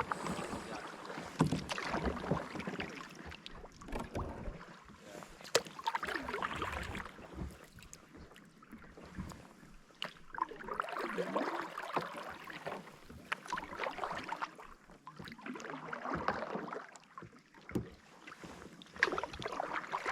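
Kayak paddles dipping and splashing in the water, in uneven swells every couple of seconds, with a few sharp knocks.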